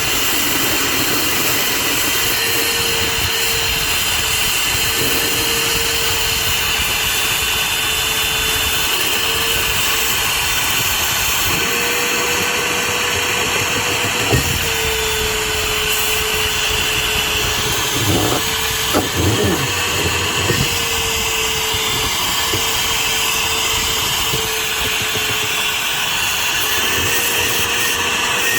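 Milwaukee Fuel brushless wet/dry vacuum running steadily, with a held motor whine and airflow hiss, as it sucks up spilled liquid laundry detergent. A few short knocks come about halfway through and again a few seconds later.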